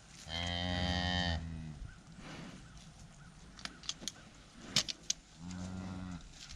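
Red Angus cow mooing twice: a loud low moo about a second long, then a shorter, quieter one near the end.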